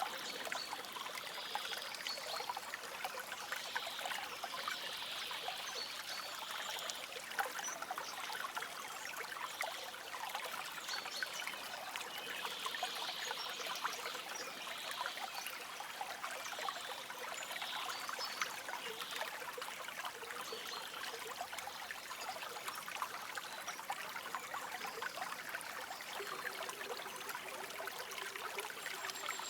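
Shallow stream trickling and babbling over stones, a steady splashing with no let-up.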